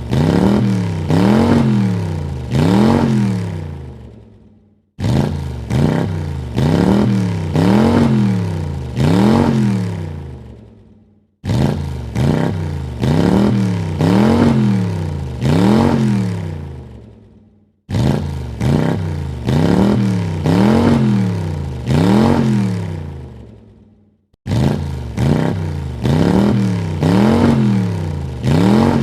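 A car engine revved in a series of quick throttle blips, its pitch rising and falling with each rev and dying away after the last. The same burst of revs repeats about every six and a half seconds, with a short silence between bursts.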